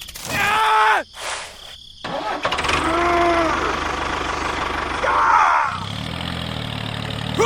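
A small engine starts about two seconds in and runs steadily, settling into an even idle near the end. A few short calls that rise and fall in pitch sound over it, the loudest in the first second.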